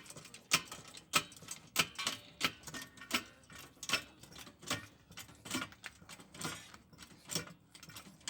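Hydraulic floor jack being pumped to lift the car, its handle and lifting arm clicking sharply in a steady rhythm of about one click every three-quarters of a second, slowing slightly near the end.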